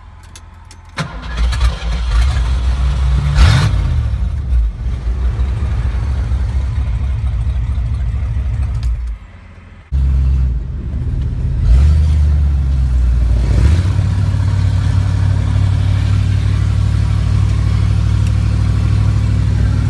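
Pickup truck's engine being started on a battery that has just run the accessories for about 45 minutes: it cranks and catches about a second in and runs. It drops out for about a second, then starts again, revs up and settles into a steady idle.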